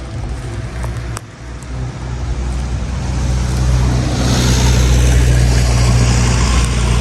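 A low, steady engine-like rumble that grows louder about three seconds in.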